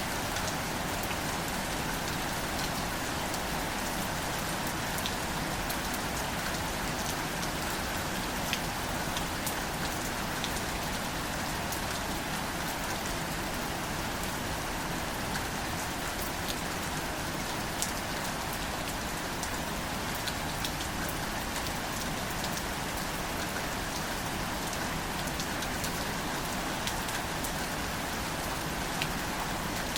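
Gentle rain falling on wildflowers and leaves: a steady hiss of rain with scattered distinct drop ticks.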